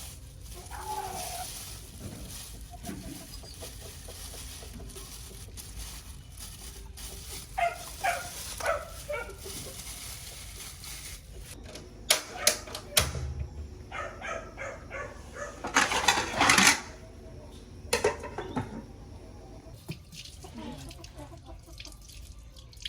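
Domestic chickens clucking, with a few sharp clattering knocks partway through.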